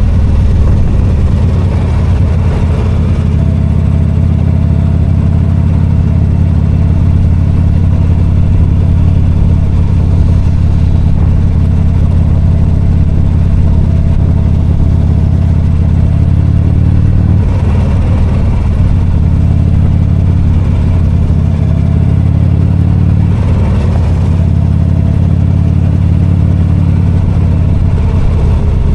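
V-twin motorcycle engine running steadily under way, heard from the rider's seat. Its note shifts briefly about two-thirds of the way through and again a few seconds later.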